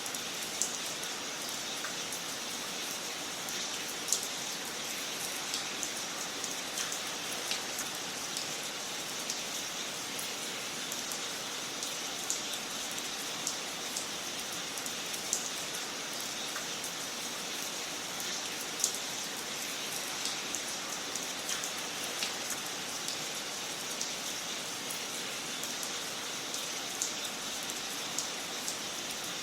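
Wood fire crackling in a fireplace: a steady hiss dotted with frequent small irregular pops and snaps, a few of them louder.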